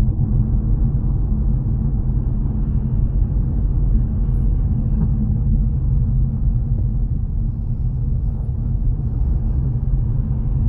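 Steady low rumble of a car driving: engine and tyre road noise with no sudden events.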